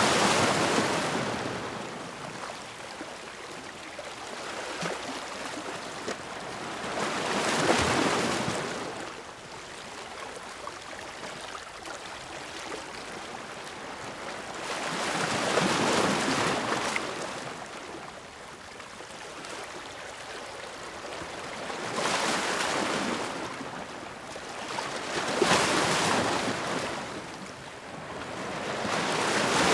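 Sea waves crashing against rocks: about six surges several seconds apart, each swelling and washing back, with a steady hiss of surf between them.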